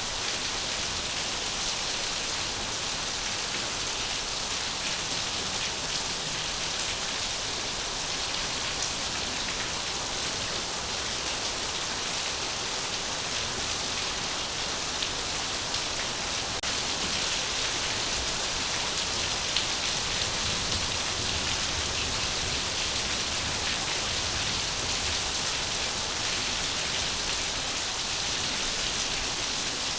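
Steady rain falling, an even hiss with no letup and a couple of brief louder ticks around the middle.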